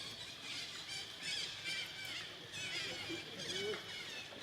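Monkeys squealing: many short, high, wavering calls overlapping one another, with a couple of lower calls about three seconds in.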